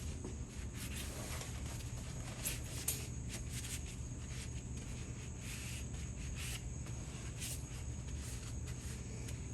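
Steady low background hum with a thin high whine, broken by scattered faint clicks and taps.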